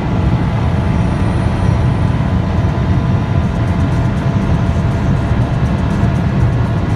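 Lamborghini Huracán's V10 held near 8,000 rpm in seventh gear, pulling slowly near its top speed, heard from inside the cabin with heavy wind and road noise. The sound is loud and steady.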